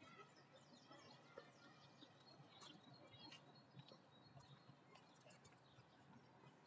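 Faint birdsong: short chirps and whistles, one after another, over a quiet background hum.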